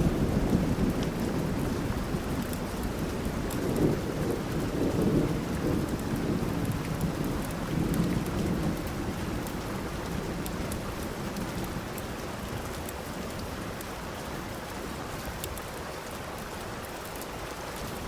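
Steady rain with fine patters of drops, under low rolling thunder that swells a few times in the first half and then dies away.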